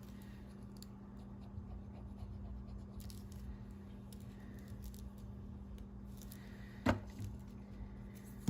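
Quiet handling of paper cards and craft supplies on a work table: faint rustles and light ticks, with one sharp click or tap about seven seconds in, over a steady low hum.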